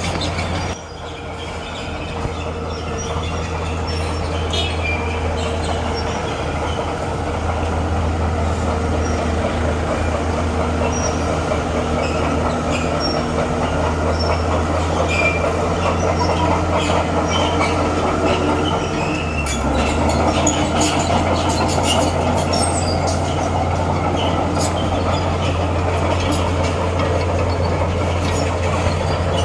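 Bulldozer at work: its diesel engine runs steadily while the steel crawler tracks squeal and clank, with many short metallic squeaks and clicks.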